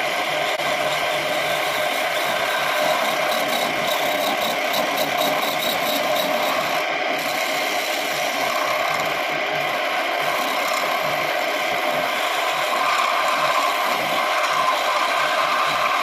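Homemade wood lathe running steadily while turning wood.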